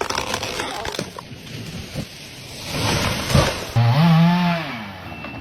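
Chainsaw cutting through wood, swelling louder about three seconds in, with a short pitched note that rises and falls near the end.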